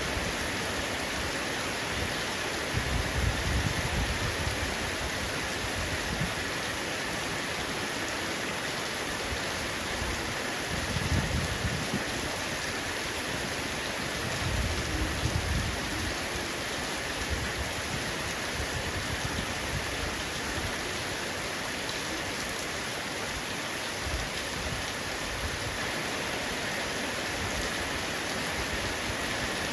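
Heavy rain falling steadily on a roof, an even dense hiss of drops. Three brief low rumbles swell up under it: a few seconds in, around ten seconds in and again shortly after.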